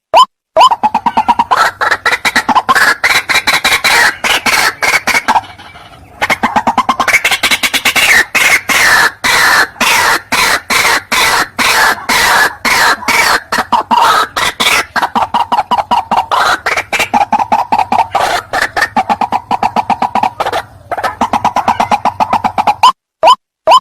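White-breasted waterhen (ruak-ruak) calling: a long, loud run of rapid harsh repeated notes, broken by two short pauses, then giving way to single spaced calls near the end.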